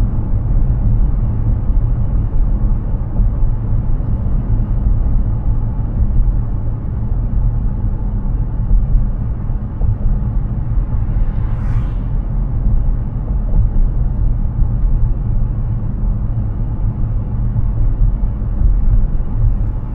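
Steady low road rumble of a Hyundai Ioniq 6 electric car driving, mostly tyre and road noise with no engine note. A short hiss comes and goes about halfway through.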